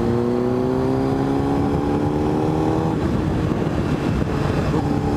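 Motorcycle engine under way, its pitch rising steadily for about three seconds as it pulls, then dropping off and settling lower near the end, as on a gear change or easing off the throttle, over a steady rush of wind and road noise.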